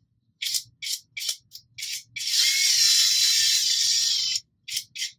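Electric screwdriver driving a long screw into the bolt knob. It gives a few short blips, then runs steadily for about two seconds with a faint motor whine, then gives two more short blips near the end.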